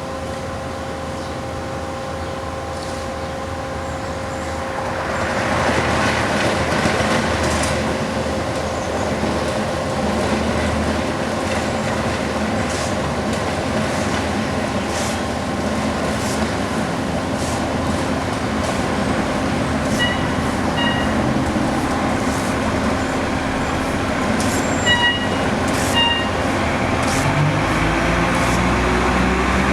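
Bobcat skid steer diesel engines running steadily; about five seconds in a loud, sustained grinding comes in, typical of the S750's cold planer milling the asphalt. A few short high beeps sound later on, and an engine revs up near the end.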